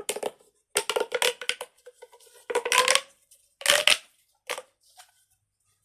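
Plastic pop tube fidget being stretched and squashed: about six short ridged zipping bursts, some carrying a hum that rises in pitch as the tube extends.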